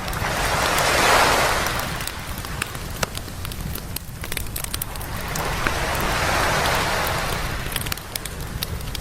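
Waves breaking and washing up the beach twice, one swell about a second in and another around six seconds in, while a campfire crackles and pops with sharp snaps throughout.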